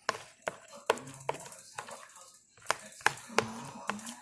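A plastic spoon stirring thick glitter-glue slime mixture in a container, clicking and tapping against the container's sides in irregular strokes about twice a second.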